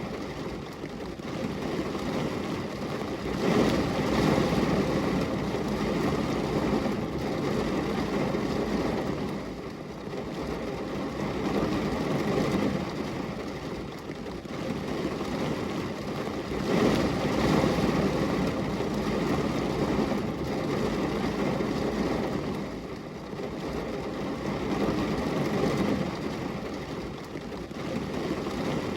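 Rain falling in a dense, even hiss with a low rumble, swelling and easing about every thirteen seconds.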